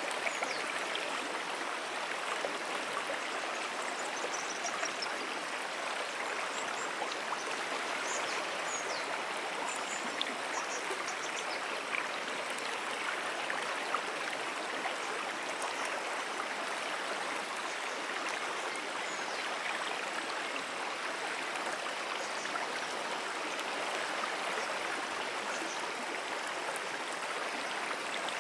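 Moonan Brook's water flowing steadily, an even, unbroken rush of a running stream.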